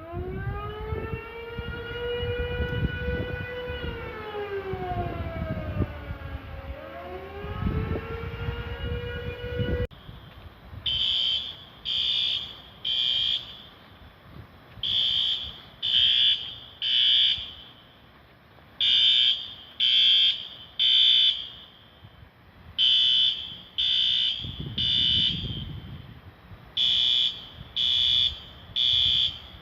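A siren wails for about ten seconds, rising, holding, falling and rising again. It cuts off suddenly. Then an alarm sounds in groups of three high beeps with a pause between groups, the temporal-three pattern of a smoke or fire alarm.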